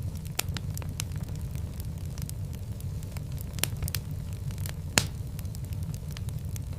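Fire in a fireplace crackling, a steady low rumble of flames under frequent sharp pops and snaps, with a louder pop about five seconds in.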